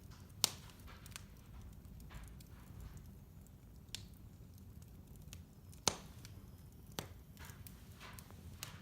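Wood fire burning in a fireplace with a low steady rumble and irregular sharp crackles and pops, the loudest snaps about half a second in, about six seconds in and again a second later.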